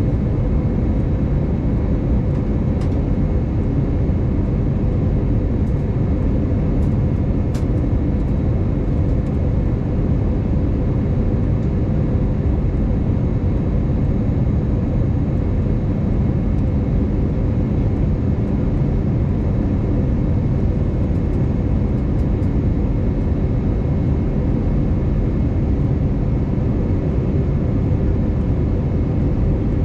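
Steady cabin noise of an Airbus A320neo in flight: an even rumble of its CFM LEAP-1A engines and airflow, with a faint steady whine on top.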